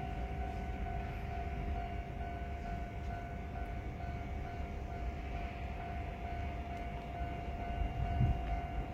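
Electric commuter train running: a steady low rumble with a constant electrical hum over it, and a single low bump near the end.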